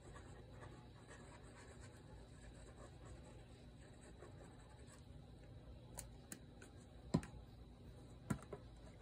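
Faint handling of paper and craft materials on a desk, soft scratching and rustling over a low room hum, then a few sharp light taps and clicks in the last three seconds, the loudest about seven seconds in.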